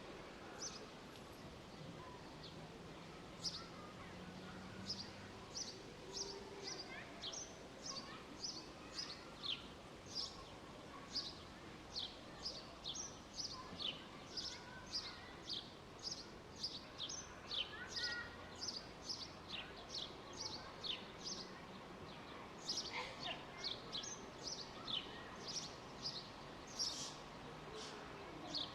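Small birds chirping: a rapid series of short, high chirps, each falling in pitch, beginning a few seconds in and repeating about one to two times a second, over a steady faint background hum.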